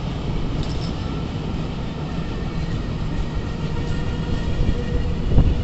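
A train running on the rails with a steady rumble of wheels and cars, and one heavier thump about five seconds in.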